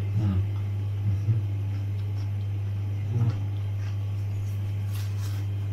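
A man chewing a mouthful of katsu chicken slider, with a few short, soft murmurs and faint crunchy clicks, over a steady low hum.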